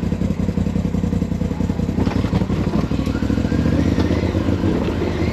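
Side-by-side UTV engine running steadily at low speed, a dense rumble with a thin whine that rises in pitch from about three seconds in.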